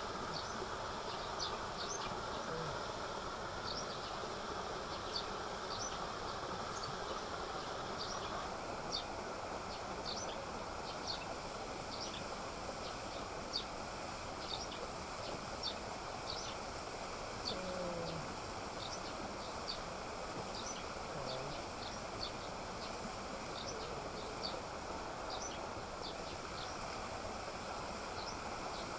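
Steady rush of a forest waterfall, with short high chirps from forest insects or birds repeating irregularly over it.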